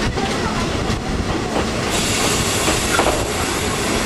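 Vintage passenger coach running along the track, its wheels rumbling with occasional clicks over rail joints, and wind rushing in through the open window. The hiss grows louder about two seconds in.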